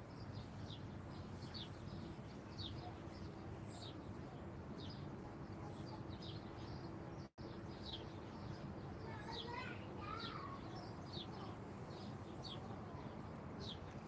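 Small songbird chirping, short high call notes about once a second, over a steady low background rumble. About nine seconds in, a second bird gives a brief lower, wavering phrase.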